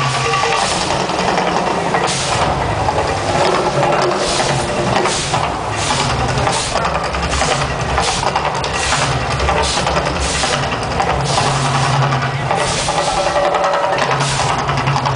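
Volcano-show soundtrack of loud drum-driven music, many drum strikes in quick succession over a steady low rumble.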